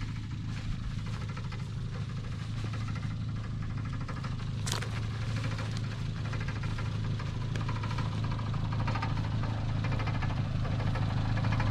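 Car engine idling steadily, slowly growing louder toward the end, with one sharp click about halfway through.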